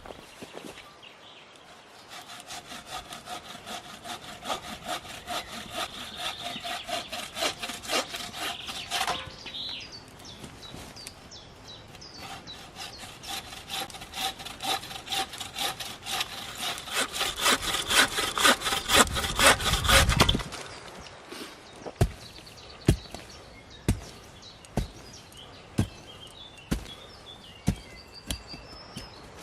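A saw cutting through a fresh, sappy log in quick, even back-and-forth strokes, with a short break partway and a louder final run before the sawing stops. Then about seven sharp knocks, roughly one a second.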